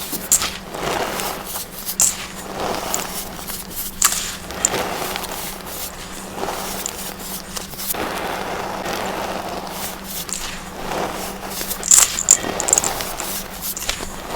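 Baked baking soda chunks being squeezed and crushed, crunching and crumbling in repeated soft, powdery swells about every second or so, with sharp crackles. The crackles are sharpest a couple of seconds before the end.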